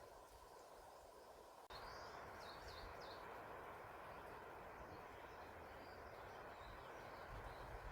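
Faint forest ambience: a steady hiss of wind that steps up suddenly just before two seconds in, then a small songbird giving a quick run of about four high chirps, with a few fainter chirps after.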